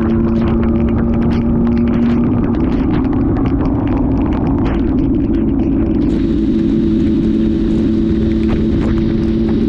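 Motorcycle engine running steadily, with a constant droning hum over a low rumble and scattered clicks.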